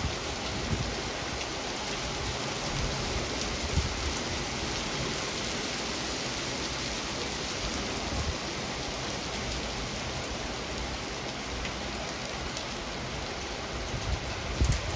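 Rain falling steadily during a thunderstorm, with a few short low thumps near the end.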